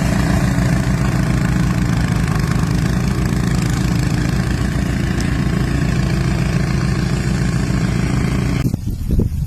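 An engine running steadily at an even speed, then cutting off abruptly near the end.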